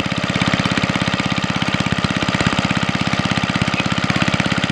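Chinese-made engine driving a village water pump, running steadily with a rapid, even beat.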